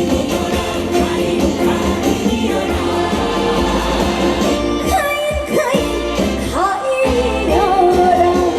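A live Korean trot song: a woman sings over a band, her voice sliding and ornamented through the second half.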